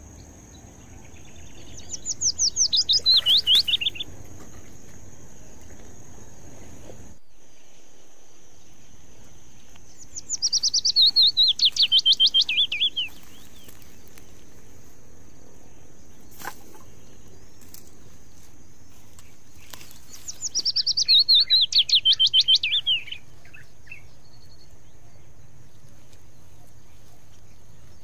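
A songbird singing the same phrase three times, each a rapid run of notes falling in pitch and lasting two to three seconds, over a faint steady high whine.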